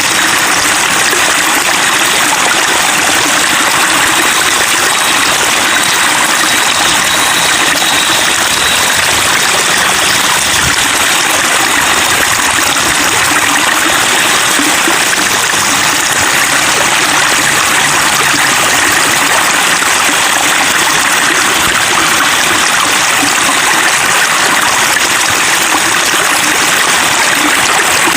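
Babbling flowing water, an even, unbroken splashing rush.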